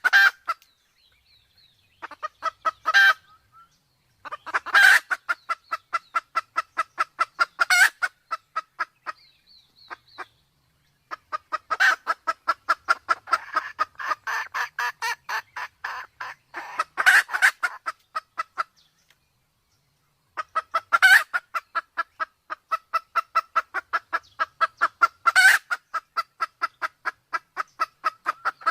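Sumatran red junglefowl calling: long runs of rapid clucks, several a second, each run set off by a louder, sharper call, with brief pauses between runs. These are the calls of a hen in breeding condition mixed with a cock's, used as a hunting lure.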